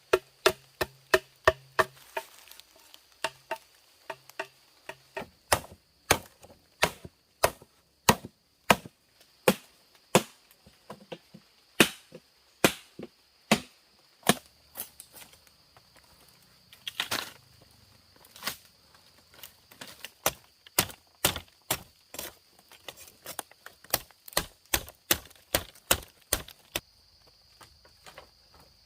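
Repeated sharp chopping strikes of a blade on wood, irregular at about one to two a second, with a short pause a little past halfway.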